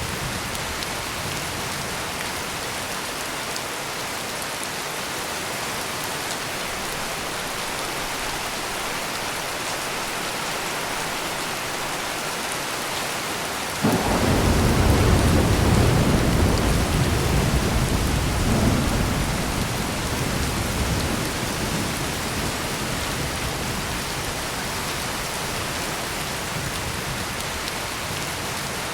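Steady heavy rain pouring. About halfway through, thunder breaks suddenly with a deep rumble that rolls on for several seconds and fades back under the rain.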